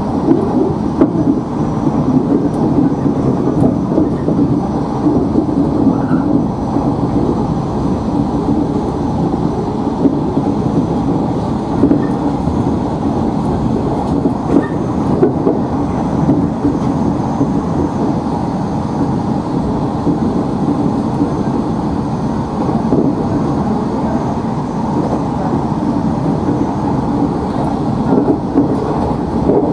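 Running noise inside the front car of a JR 115 series electric train travelling along the line: a steady rumble with the wheels clicking over the rails.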